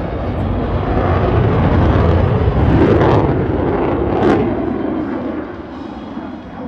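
Eurofighter Typhoon FGR4 fighter jet, powered by twin Eurojet EJ200 turbofans, passing by: a loud rushing rumble that swells to a peak about two to three seconds in, then fades away.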